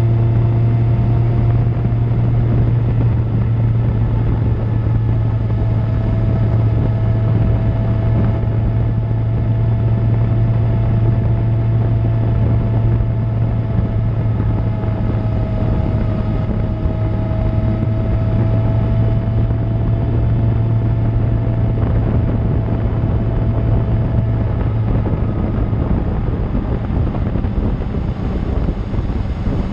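2000 Suzuki GSX-R750 inline-four with an Akrapovic exhaust, running at a steady cruising speed with wind noise. The engine note eases slightly near the end.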